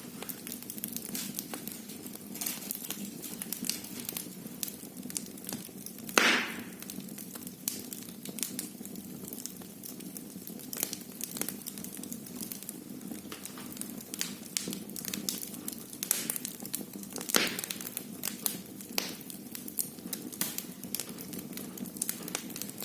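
Wood fire crackling in a fireplace: a steady stream of small pops and snaps, with two louder cracks, one about six seconds in and one about seventeen seconds in.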